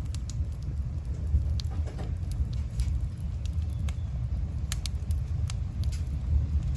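Campfire burning, wood crackling with scattered sharp pops and snaps over a steady low rumble.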